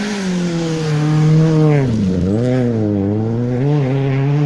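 Citroën rally car's engine running hard through a stage section. Its pitch drops sharply about two seconds in, then climbs and dips again several times.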